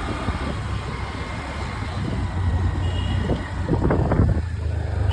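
Scooter ride through road traffic: a steady low engine and road rumble under a haze of traffic noise, with a short faint beep about three seconds in.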